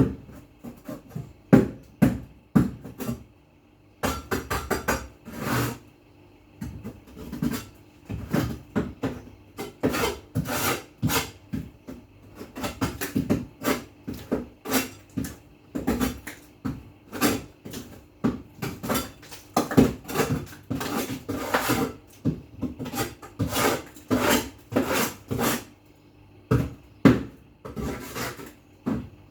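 Repeated hand scrubbing and scraping strokes while cleaning out a refrigerator, irregular at about one to two a second, with a short pause about four seconds in.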